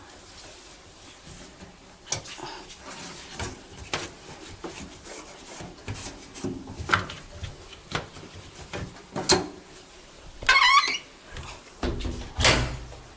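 Washing-machine parts being handled and fitted, giving scattered clicks and knocks. A short squeak comes about ten seconds in, and a louder heavy knock near the end.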